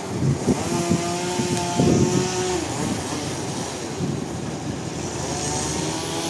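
Sawmill machinery running: a steady engine-like drone whose pitch holds, then dips and shifts slightly a couple of times, over a broad mechanical noise.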